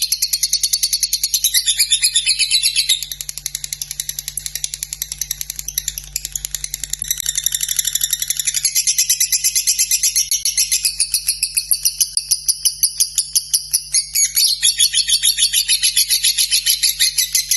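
Lovebird singing a long, unbroken chattering trill: rapid repeated high notes with no pause.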